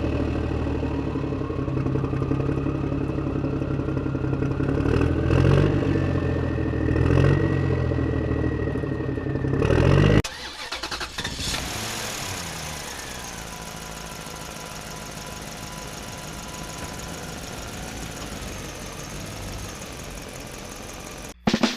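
Vehicle engine running steadily with a slowly rising whine, cut off abruptly about ten seconds in and followed by a quieter, steady engine drone with a falling whine.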